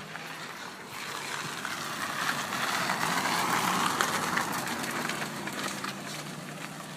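A car driving slowly past, its tyre and engine noise swelling to a peak about three to four seconds in and then fading.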